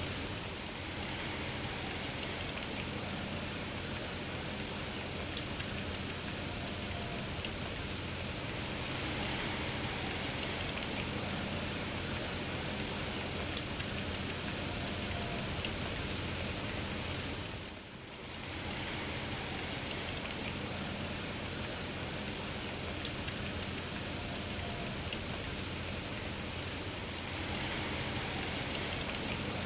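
Steady rain falling, an even hiss with scattered drop ticks, and three sharper, louder drop strikes spread across the stretch. The rain softens briefly a little past halfway, then returns.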